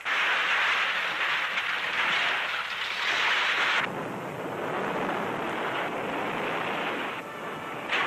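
Sound of a volcano erupting on an old newsreel soundtrack: a dense rushing noise with no distinct bangs, bright for about the first four seconds, then duller and lower.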